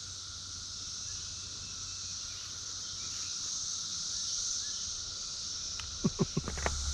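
Steady, unbroken chorus of periodical cicadas (Brood XIX emergence), a dense high-pitched drone. A few sharp taps come near the end.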